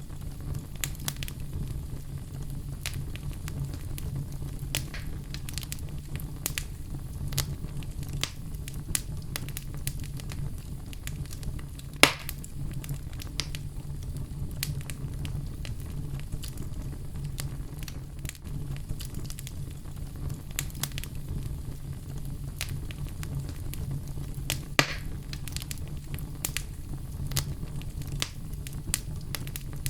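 Oak logs burning in a fireplace: a steady low rumble of flames with frequent sharp crackles, and two louder pops, one about 12 seconds in and one near 25 seconds.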